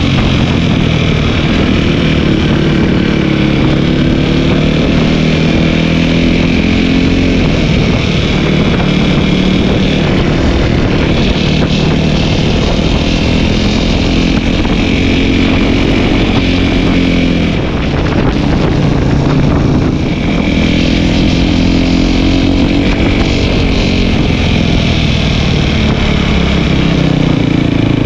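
Dirt bike engine running on the move, climbing in pitch and dropping back several times as it accelerates and eases off, with a steady rushing noise underneath.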